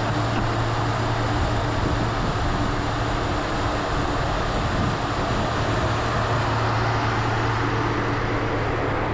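Steady engine drone of a high-speed passenger ferry, a constant low hum under a rushing noise of hull and wind.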